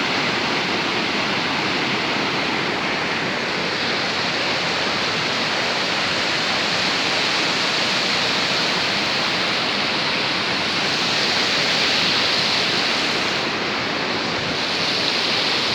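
Loud, steady rush of flowing water: a continuous hiss with no breaks.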